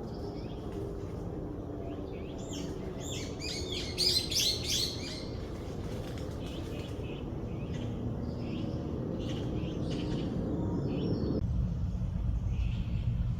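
Small birds chirping and tweeting, with a quick flurry of high chirps a few seconds in, then scattered calls, over a steady low rumble that grows louder near the end.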